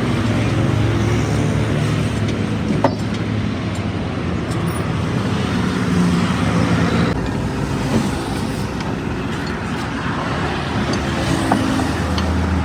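Road traffic noise with vehicle engines running close by, a steady low hum, broken by three short sharp knocks.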